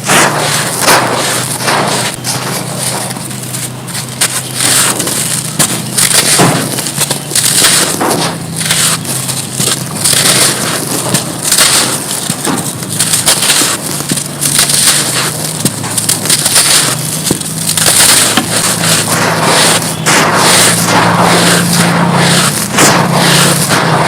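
Dry mud chunks being crushed and crumbled: a dense, continuous run of gritty crunches and cracks.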